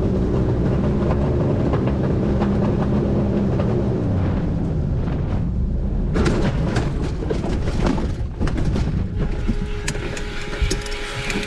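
An engine running with a steady low drone. From about six seconds in, rough crackling and knocks break in over it, like wind and handling on the microphone.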